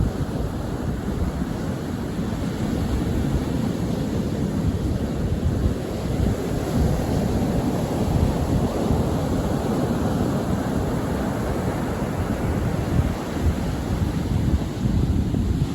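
Sea waves washing onto a shore, a steady rushing wash that swells and eases, with wind rumbling on the microphone.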